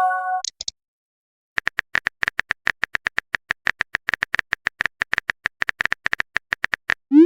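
Rapid run of short identical electronic clicks, about six a second, a text-typing sound effect for on-screen dialogue; a short pitched chime sounds at the start and a quick rising blip near the end.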